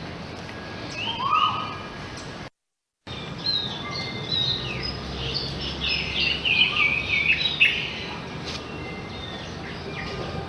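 Small birds chirping and calling, a few calls early and a dense run of quick high chirps in the middle. The sound drops out completely for about half a second, about two and a half seconds in.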